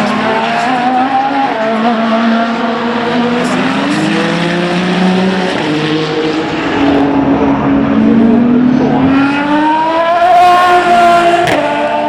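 Race car engines at speed on track, several engine notes rising and falling as cars pass. The loudest pass is about nine seconds in, its pitch climbing.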